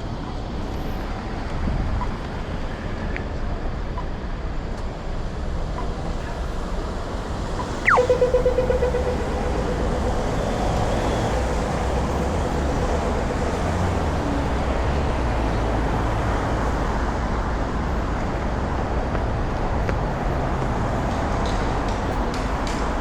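Steady city traffic noise. About eight seconds in, a short squeal slides down in pitch, followed by a pulsing hum that fades away over the next few seconds.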